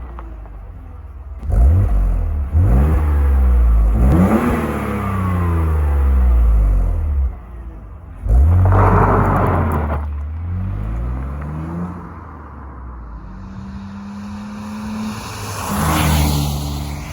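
BMW E46 320Ci's 2.2-litre M54 inline-six breathing through a TA-Technix cat-back exhaust, revved several times: steep climbs in pitch from a low idle that fall away again, then a steady held note near the end.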